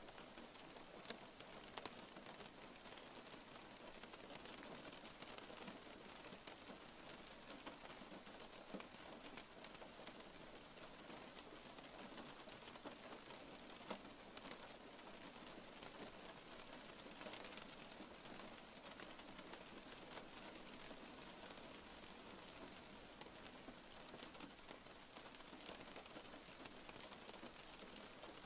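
Faint steady rain falling, an even hiss with a few sharper drop ticks now and then.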